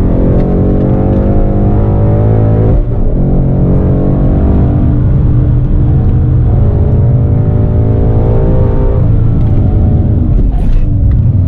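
2015 Mustang GT's 5.0-litre V8 with a Borla ATAK exhaust, heard from inside the cabin, pulling hard under full throttle with revs climbing. A quick upshift about three seconds in briefly drops the sound before the revs climb again.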